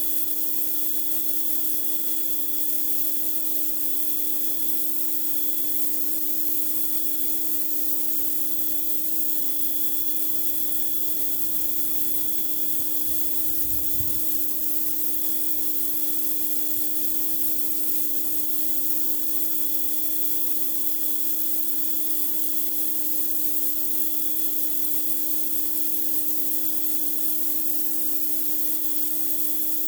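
Pressure washer blasting water onto concrete: a steady, unbroken hiss of spray over the even hum of the machine.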